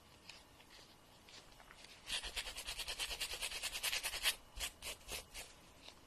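Fingernail being filed: quick back-and-forth rasping strokes, about nine a second for some two seconds, then four slower single strokes.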